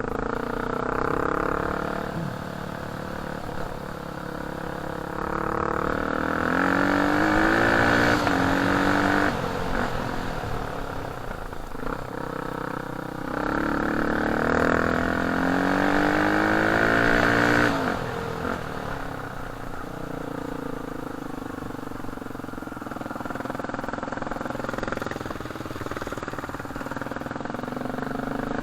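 Off-road motorcycle engine running under load, its revs climbing twice to a louder, higher pitch, about a quarter and about halfway through, then easing back to a lower steady drone.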